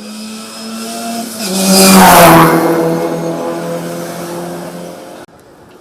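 A race car passing at speed: its engine note builds to a loud peak about two seconds in, then drops in pitch and fades as it goes away, cutting off abruptly near the end.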